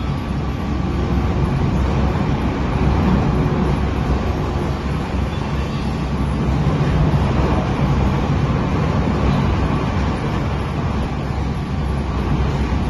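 Industrial wood chipper running, a loud steady mechanical rumble that swells slightly now and then.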